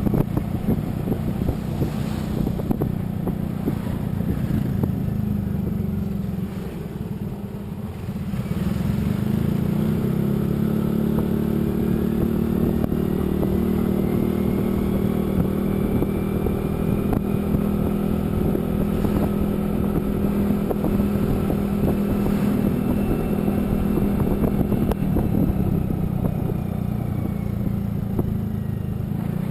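A motor vehicle's engine running on the move, with road noise. It eases off a few seconds in, then climbs in pitch as it accelerates and settles into a steady cruise.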